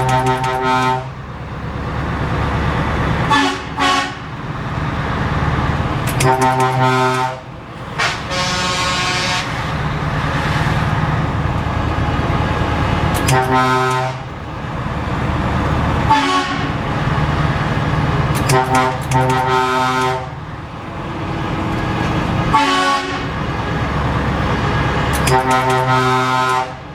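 Truck air horns sounding in short blasts every few seconds, about eight in all, over a truck engine running steadily underneath.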